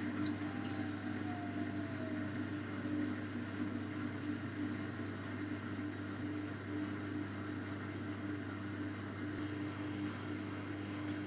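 Miele Novotronic W822 washing machine running its final-spin programme with a steady motor hum.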